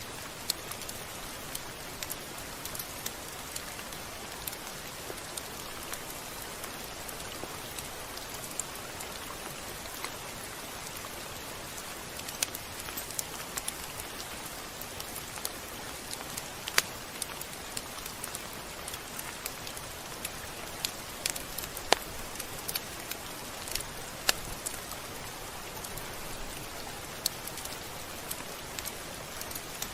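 Steady rain falling, an even hiss with many scattered sharp drop ticks, a few louder ones in the second half.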